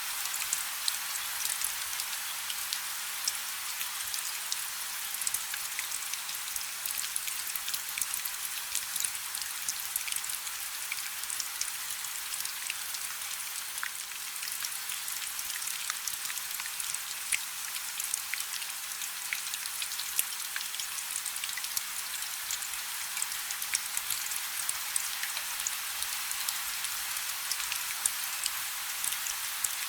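Light rain falling steadily: an even high hiss with many small, sharp drop ticks scattered through it.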